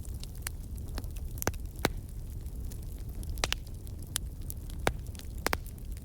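Wood fire in a fireplace crackling, with sharp pops at irregular intervals over a low, steady rumble of flame.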